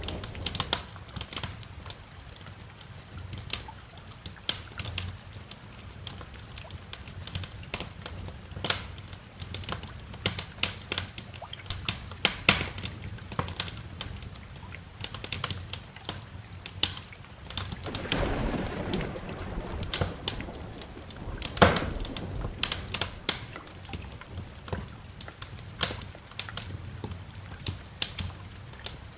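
Wood fire crackling in a fireplace: irregular sharp pops and snaps, several a second, over a steady soft hiss. A low rumble of distant thunder swells briefly about halfway through.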